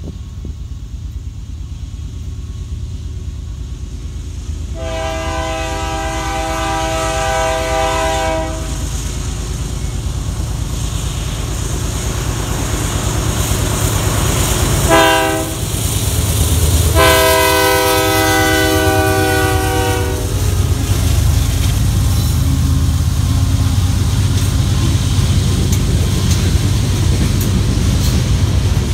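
BNSF freight train with diesel locomotives approaching and passing. The lead locomotive sounds its multi-note air horn three times: a long blast about five seconds in, a short one around fifteen seconds, and another long one just after. The rumble grows louder, then the boxcars roll by with a steady wheel rumble and clicking.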